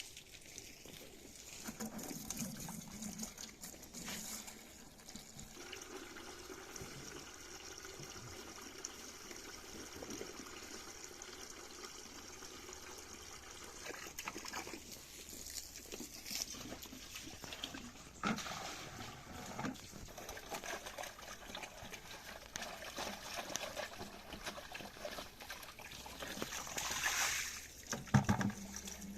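Liquid trickling and splashing steadily into a container, with scattered small clicks and a couple of sharp knocks, the loudest near the end.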